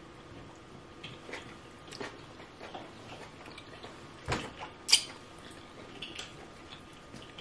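Close-miked mukbang eating sounds: lip smacks and soft wet chewing of pounded yam and banga soup eaten by hand, as small scattered clicks. Two sharper smacks stand out between four and five seconds in, the second the loudest.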